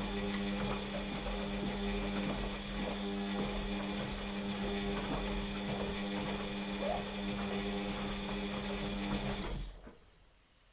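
Washing machine running its wash cycle: the drum motor hums steadily while the tumbling load clicks and knocks, then the motor stops abruptly near the end.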